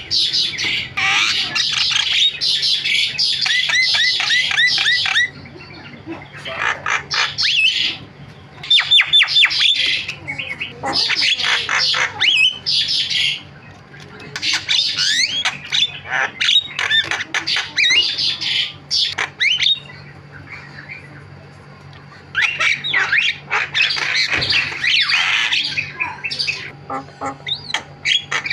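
Javan myna (jalak kebo) singing a fast, talkative jumble of harsh squawks, whistles and chattering notes in bursts of several seconds with brief pauses. One stretch is a quick run of evenly repeated notes.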